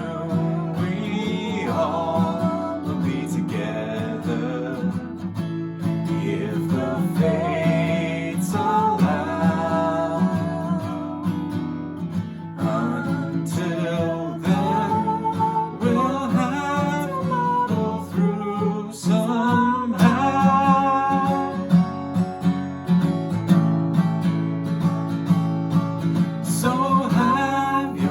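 A song with strummed acoustic guitar accompanying a voice singing a slow melody.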